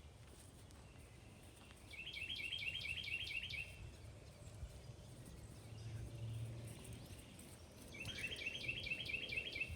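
A songbird singing two short phrases, each a quick run of about eight or nine repeated high notes lasting under two seconds, the second about six seconds after the first, over faint background noise.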